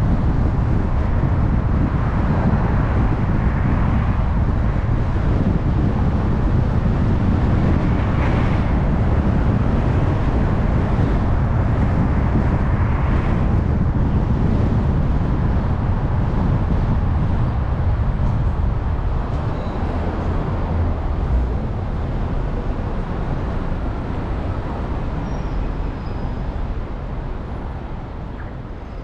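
A car driving through traffic: a steady low rumble of engine and tyre noise, with other vehicles passing now and then, growing gradually quieter over the last ten seconds or so.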